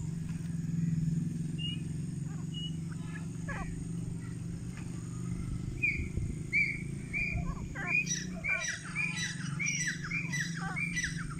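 Grey francolins calling: scattered chirps at first, then from about halfway a quick run of shrill repeated calls, each dropping in pitch, over a steady low hum.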